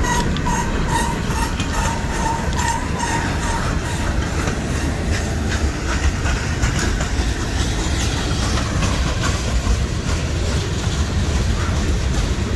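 CSX freight train cars, hoppers and boxcars, rolling past: a steady heavy rumble of the wheels on the rails with clicks as they cross rail joints. For the first few seconds a grade-crossing bell dings about twice a second, then stops.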